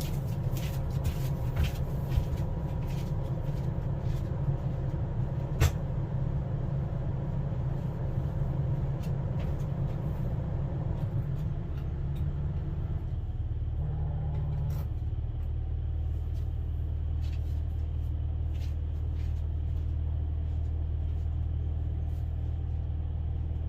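A steady low motor or engine hum that drops to a lower pitch about halfway through, with scattered sharp clicks and knocks in the first half.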